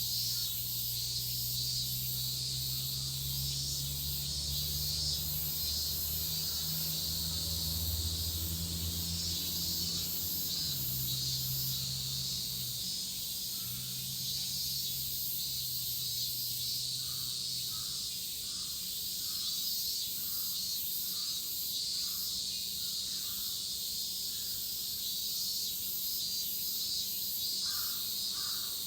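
Cicadas shrilling in a steady, dense chorus. Crows caw repeatedly in the second half. A low hum sits underneath and fades out about halfway.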